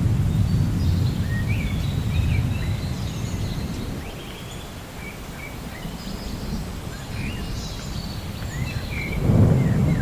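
Steady rain with a low rumble of thunder that dies down midway and swells again near the end, while birds chirp over it.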